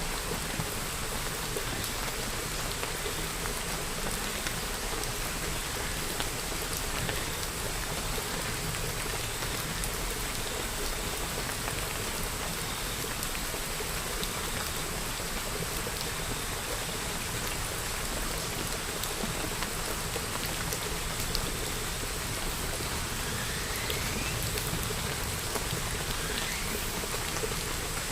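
Steady, even rainfall, with many separate drop hits ticking through it.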